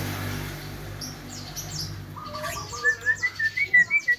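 Javan myna (jalak kebo) calling: a quickening run of short chirped whistle notes that starts about two seconds in.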